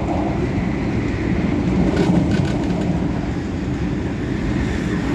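Adtranz-CAF electric multiple unit in motion, a steady rumble of wheels and traction gear heard from inside the passenger car, swelling slightly about two seconds in.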